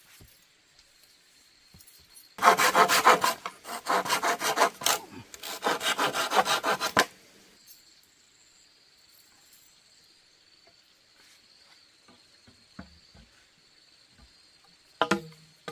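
Hand saw cutting through bamboo in a quick run of rasping back-and-forth strokes, lasting about four and a half seconds and then stopping. A steady high insect drone runs underneath, and a short knock comes near the end.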